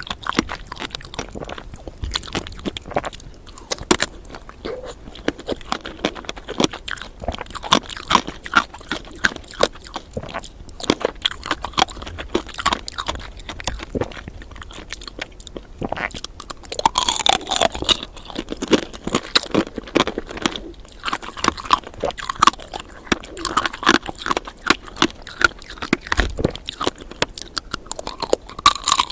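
Close-miked biting and chewing of candied fruit: repeated sharp, irregular crunches as the coated fruit is bitten and chewed.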